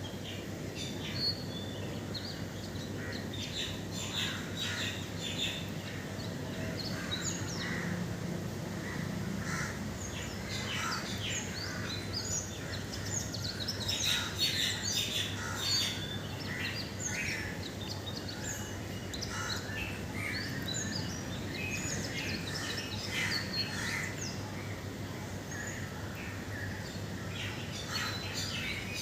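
Many birds chirping and singing at once, a dense chorus of short high calls that overlap throughout, busiest around the middle. A steady low hum runs underneath.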